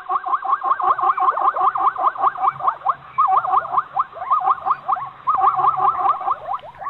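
An animal calling in a fast run of short chirps, about seven a second, broken by a couple of brief pauses.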